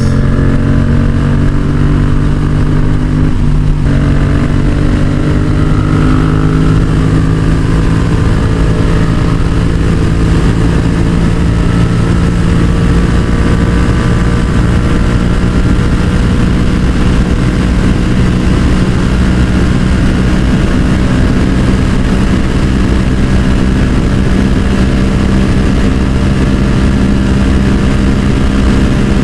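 Yamaha XSR700's parallel-twin engine with a Yoshimura exhaust, running steadily at cruising speed, its pitch creeping slowly upward as the bike gathers speed.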